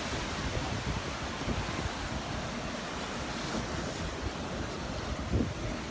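Surf washing onto the beach, heard as a steady rush of noise, with wind rumbling on the microphone.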